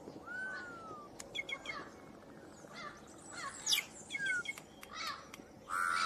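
Several birds chirping and whistling: short gliding whistles and quick chirps over a low, steady outdoor hiss. Near the end a louder, steady held note starts.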